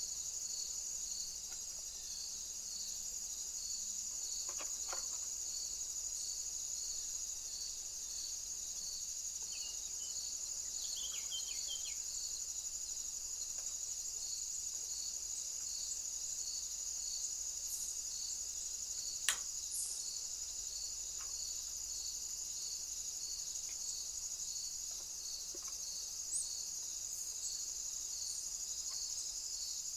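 Insects stridulating: a steady high-pitched chirring, with a regular pulsed chirp below it a little more than once a second. A few short bird chirps come around a third of the way in, and a single sharp click about two-thirds of the way through.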